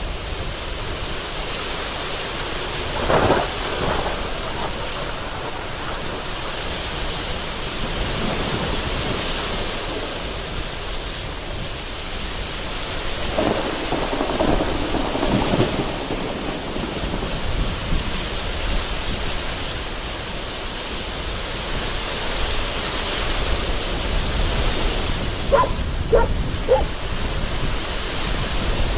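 Heavy rain pouring and strong gusty wind as a steady roar of noise, with thunder rumbling and swelling about three seconds in and again midway.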